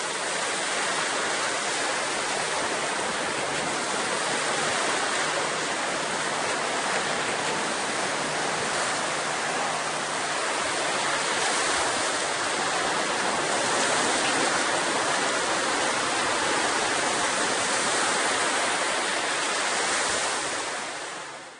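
Steady, even rushing of water that fades out sharply at the very end.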